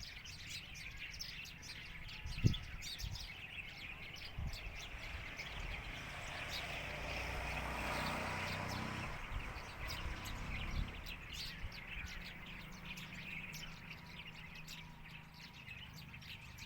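Small birds chirping in quick, continuous succession, typical of alarm calls at a snake in the tree. There is a single low thump about two and a half seconds in, and a swell of rushing noise through the middle.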